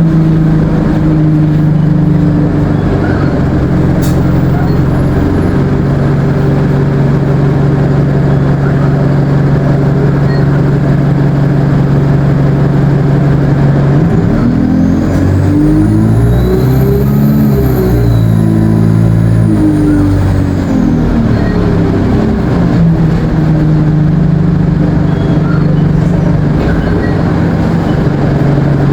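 ADL Enviro 200 bus's diesel engine and Allison automatic gearbox running steadily. About halfway through, the engine note sweeps up and down through gear changes while a high turbo whine rises and falls, then the engine settles back to a steady drone.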